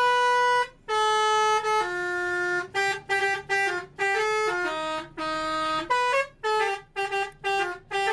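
Truck telolet horn playing a tune: a run of short blips and held notes that step between pitches, with brief breaks between them.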